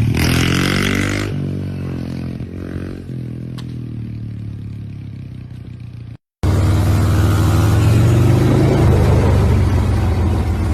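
Motorcycle engine running, its pitch sinking gradually over the first six seconds. After a short gap of silence about six seconds in, the engine runs louder and steadier.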